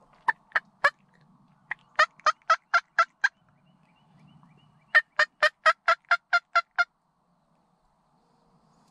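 Turkey yelping: three runs of loud, evenly spaced yelps at about four a second, a short run of three, then six, then a longer run of about nine.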